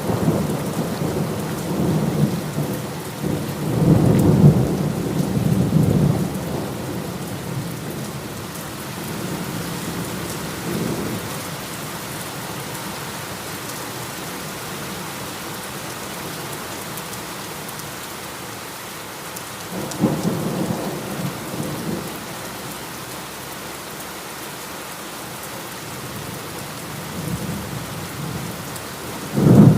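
Heavy rain falling steadily, with rolls of thunder rumbling over it: a long rumble about four seconds in, another around twenty seconds, and a sudden loud clap right at the end.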